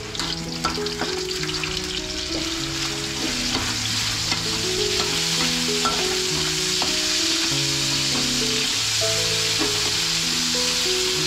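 Minced meat sizzling in hot oil in a metal wok, stirred with a metal spatula that scrapes and clicks against the pan now and then. The sizzle grows louder over the first few seconds as the meat goes into the oil, then holds steady.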